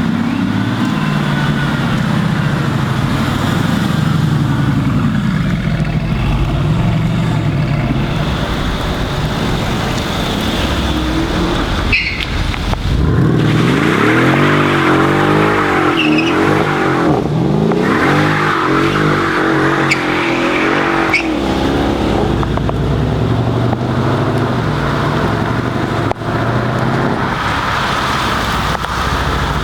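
Mercedes-AMG car engines rumbling at low revs, then, a little before halfway, one car revved hard several times in quick succession, its pitch rising and falling with each blip, before settling back to a steady rumble.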